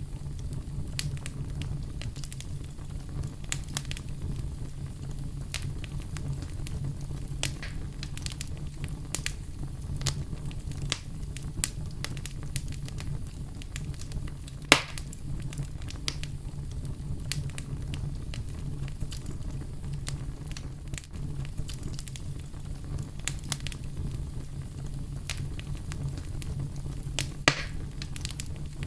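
Wood fire in a fireplace, crackling steadily with scattered sharp pops over a steady low rumble. One louder pop comes about halfway through and another near the end.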